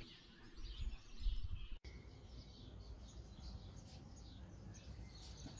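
Faint outdoor birdsong: many short chirps over a low background rumble, with a brief dropout about two seconds in.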